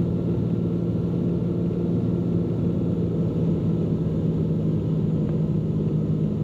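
Cessna P210N's turbocharged six-cylinder engine and propeller droning steadily at reduced power on the landing approach.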